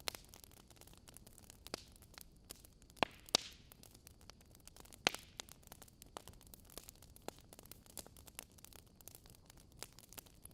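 Wood fire in a fireplace crackling, with scattered sharp pops over a low steady hiss; a few louder pops about three seconds in and again near the middle.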